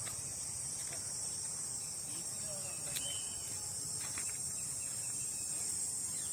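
Steady high-pitched insect chorus, shrilling without a break.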